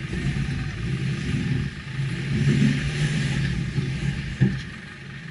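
Subaru Forester's flat-four boxer engine revving under load as the car drives through deep muddy ruts, swelling midway and easing off near the end. A single sharp thump comes about four and a half seconds in.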